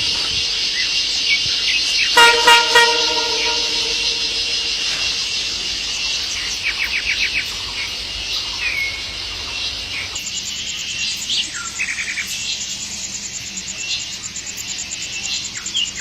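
A steady, dense high-pitched insect drone of forest cicadas, with scattered bird chirps. About two seconds in comes a short, loud, horn-like pitched call with strong overtones.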